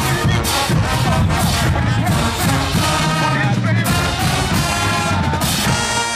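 College marching band playing: brass horns over a steady beat of heavy drum hits.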